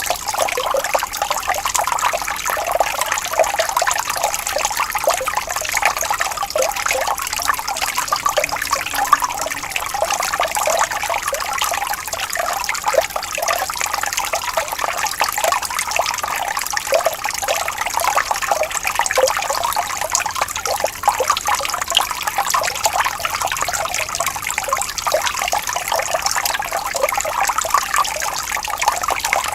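Shallow water trickling and burbling steadily over stones in a small stream, a constant bright babble of many small splashes.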